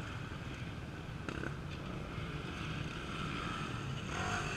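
Off-road race motorcycle engines running at a distance as a steady low rumble, with wind on the microphone; near the end one engine rises in pitch as it revs.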